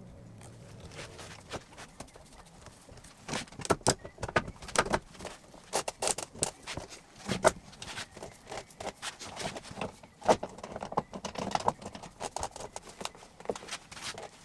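A run of irregular, sharp clicks, knocks and clinks of tools and hardware being handled, starting a few seconds in after a quiet opening.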